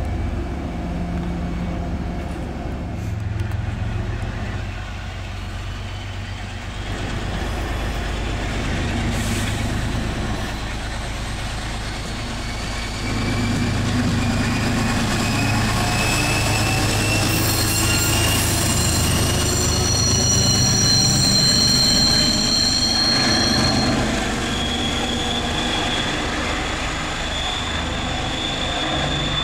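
MBTA diesel-electric commuter rail train pulling out with bilevel coaches, its engine running low and steady. Through the second half a high whine rises slowly in pitch as it gathers speed.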